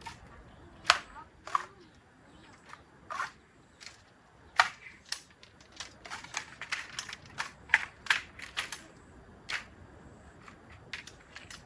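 A string of sharp clicks and snaps at uneven spacing, about twenty in all, the loudest about a second in and near the middle.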